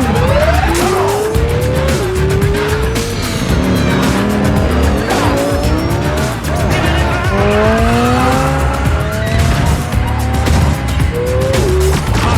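Car engines revving hard and climbing in pitch through several gear changes, with tyres squealing, over a rap song with a heavy, pulsing beat.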